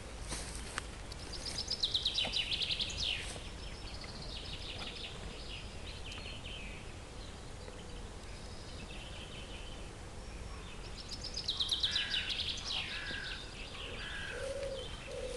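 Songbird singing outdoors: two fast trilled phrases that fall in pitch, about two seconds in and again about eleven seconds in, with scattered chirps between, over a steady low rumble. Low cooing from a pigeon starts near the end.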